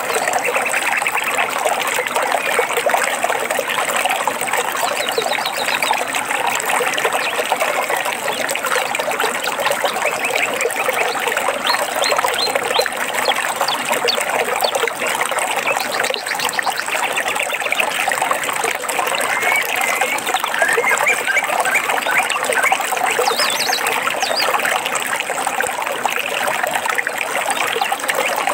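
Small stream trickling and babbling steadily, with birds chirping faintly over it now and then.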